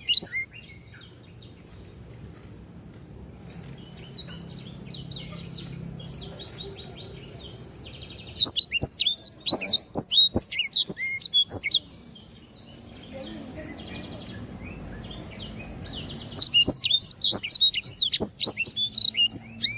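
A songbird singing in loud bouts of rapid, high chirps and trills, about three seconds each, with softer twittering between the bouts.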